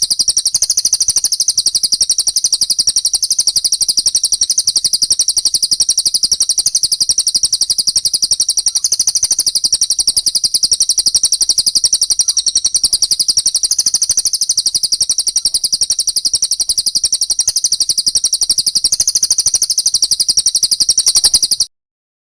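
Songbird chatter from a birdsong training track of a fighting tree sparrow ('gereja tarung') mixed with a cililin: a rapid, unbroken stream of high chirps at a steady level. It cuts off suddenly near the end.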